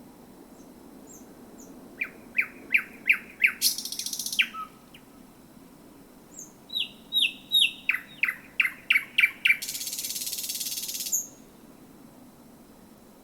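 Thrush nightingale singing: two phrases, each a quick run of loud, sharp repeated notes followed by a dry, buzzing rattle, the second phrase with a longer rattle that stops about eleven seconds in.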